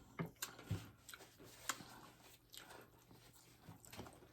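Close-miked chewing of crispy tostadas, faint, with a handful of sharp crunches and clicks spread irregularly through it.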